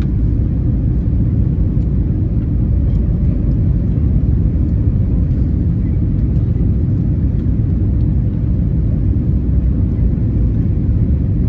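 Airbus A321neo cabin noise heard from a rear window seat: a steady, loud low rumble of engines and airflow with a faint steady hum.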